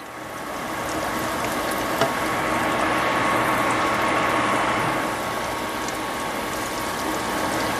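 Battered plantain fritters sizzling in hot oil in a pan, the sizzle swelling about a second in as the pieces are turned over with a spatula. A few light clicks of the spatula against the pan, over a steady faint high tone.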